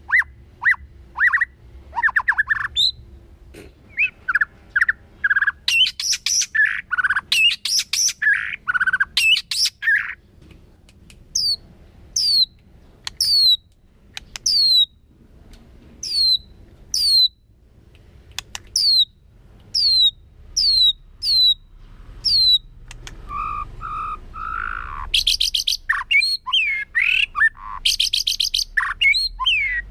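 White-rumped shama singing a varied song: quick repeated notes, then a long run of short, falling whistles, then a busier, jumbled phrase near the end.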